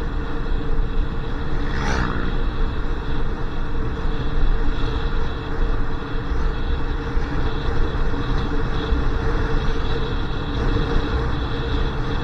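Motorcycle riding on the road: steady engine hum with wind and road noise throughout, and a brief sweeping sound about two seconds in.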